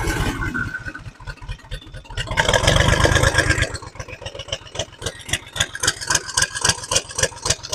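Tractor engine running just after a cold start on ether, picking up briefly about two and a half seconds in, then settling to a steady idle with an even beat of firing pulses as it warms up.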